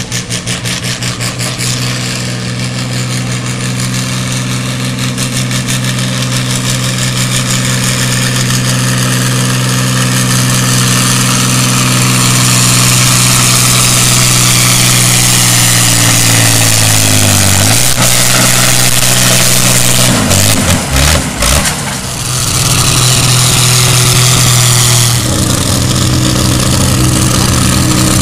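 An altered stock pulling tractor's engine runs hard and loud at a steady pitch. About two-thirds of the way through, the pitch sags as the engine is pulled down under load, then breaks off and sputters briefly. It then settles back to a steady run near the end.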